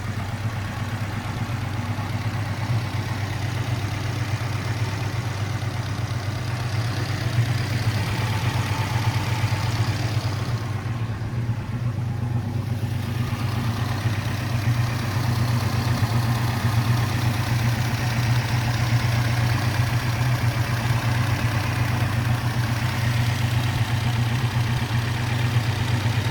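Alfa Romeo GT 1300 Junior's 1.3-litre twin-cam four-cylinder engine idling steadily.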